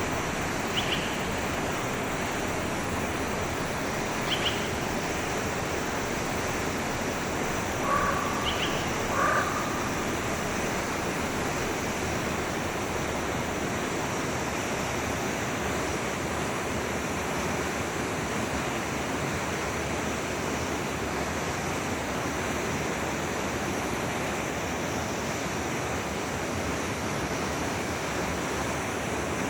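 Forest stream flowing with a steady rush of water. A few short bird calls come over it in the first ten seconds, the loudest two close together about eight and nine seconds in.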